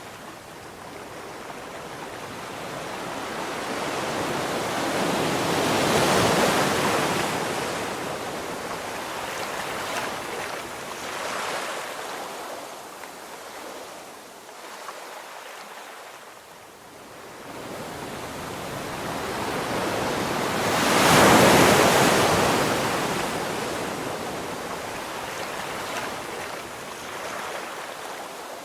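Ocean waves breaking and washing up a sandy beach: two waves swell to a peak, about six seconds in and again about twenty-one seconds in, each hissing out as it recedes.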